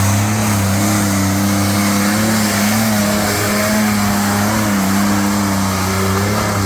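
Tractor-pulling vehicle's engine running loud at a steady, slightly wavering pitch.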